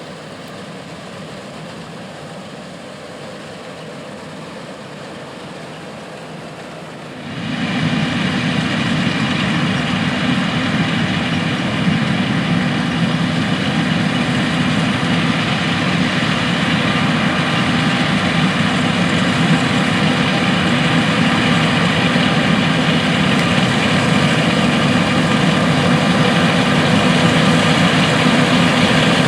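Steady drone of big John Deere diesel farm machinery at work in the field, a hum made of several steady tones. It jumps suddenly much louder about seven seconds in and then holds steady.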